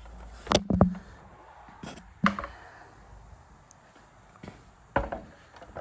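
A few sharp knocks and clunks of the Milwaukee track saw being handled and set onto its guide rail: two close together under a second in, then single ones about two and five seconds in. The saw's motor is not running.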